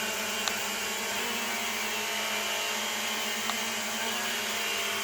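Small Propel Flex 2.0 drone's electric motors and propellers running steadily in a whirring hum, with two brief clicks, one about half a second in and one near three and a half seconds.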